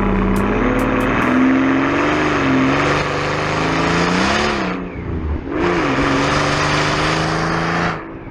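Twin-turbo V12 of a Renntech stage 1 tuned 2008 Mercedes-Benz CL65 AMG accelerating hard, its engine and exhaust note climbing in pitch. The sound dips briefly about five seconds in, then pulls again before easing off near the end.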